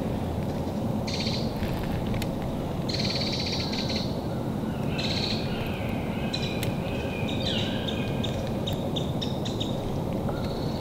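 Small birds in woodland giving repeated short, high chirps and trills a second or two apart, over a steady low rushing background noise.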